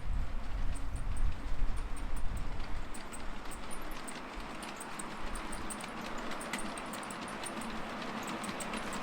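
Wind buffeting the microphone with a heavy low rumble for the first few seconds, then a 5-inch gauge miniature train running on the track with rapid, irregular clicking of its wheels over the rail joints.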